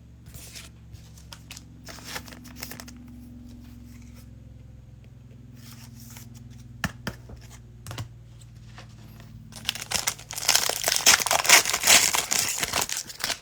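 Cellophane wrapper of a 2021 Mosaic football cello pack being torn open and crinkled, loudly for the last three seconds or so, after a stretch of faint handling clicks.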